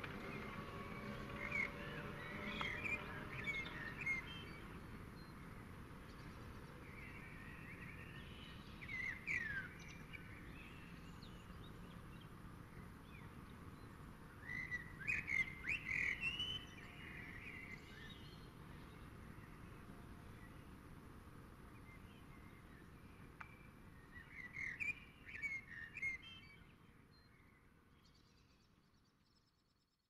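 Birds singing in four short bouts of chirps and quick whistled glides, over a steady low background hum. The whole sound fades out near the end.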